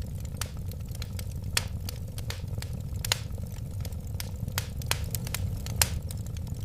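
Burning wood crackling in a fireplace: many sharp, irregular pops over a steady low background of the flames, with two louder pops, about a second and a half in and near the end.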